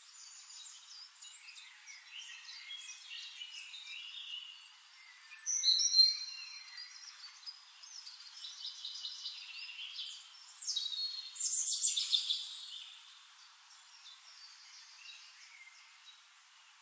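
Birds chirping and singing in many short overlapping calls, loudest about six seconds in and again from about eleven to thirteen seconds in. The sound is thin, with nothing in the low end.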